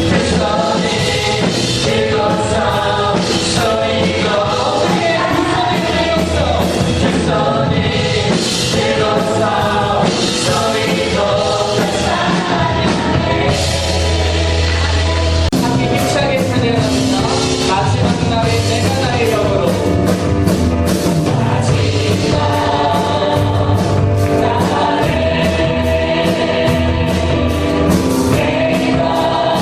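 Christian praise team singing a worship song together, with a band playing a steady bass line and drums.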